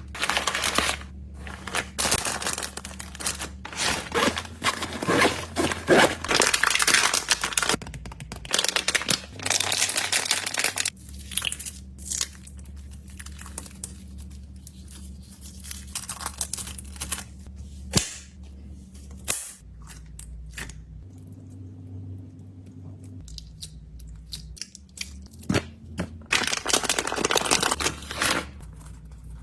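Plastic packaging crinkling and tearing as snacks are handled and packed, in dense bursts of rustling. It goes quieter midway, with a couple of sharp clicks, then rustles again near the end.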